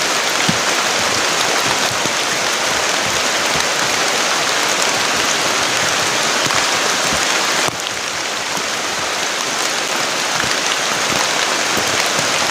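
Heavy rain pouring steadily, a dense unbroken hiss. About three-quarters of the way through, the sound cuts suddenly to a slightly quieter, similar rush of water.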